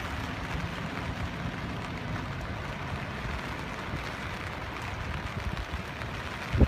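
Steady hiss of water, with a low rumble underneath.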